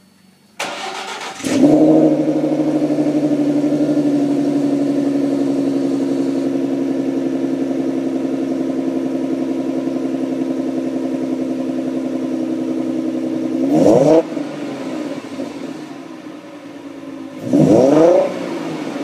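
2013 Roush RS Mustang's 3.7-litre V6 on its stock axle-back mufflers, started from cold. The starter cranks briefly and the engine catches about a second and a half in, then settles into a steady idle that slowly eases. Near the end come two short revs, the second bigger, each dropping back to idle.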